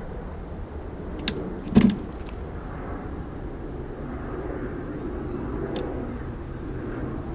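Wooden beehive frames being handled: a sharp knock about two seconds in, with a lighter click just before it and another later, over a steady low rumble.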